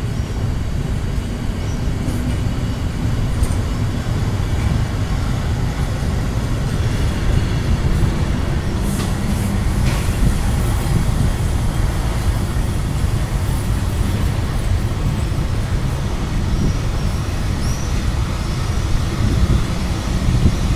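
Historic centoporte passenger coaches rolling slowly along a station platform: a steady low rumble of wheels on the track.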